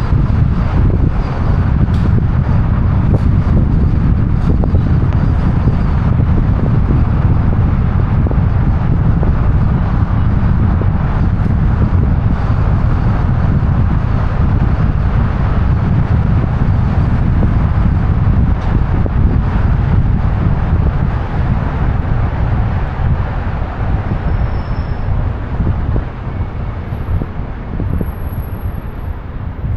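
Wind rushing over a roof-mounted camera's microphone on a moving car, with steady road and traffic noise underneath. The noise is loud and deep and eases off slightly in the last third.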